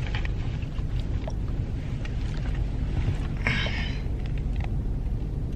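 1986 Chevrolet Caprice engine running with a steady low rumble.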